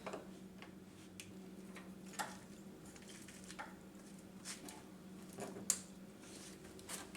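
Faint, scattered clicks and light taps of hand work on small engine parts, about eight in all, the sharpest near two seconds and near six seconds in, over a steady low hum.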